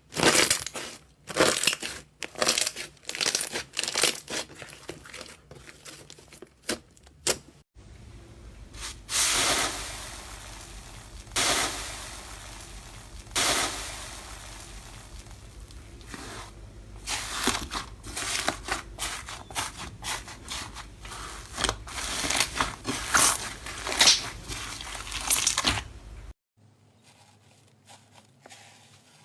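Slime being squeezed, stretched and pressed by hand, giving dense runs of sticky crackles and pops. The background changes abruptly about a third of the way in and again near the end, where the sound stops.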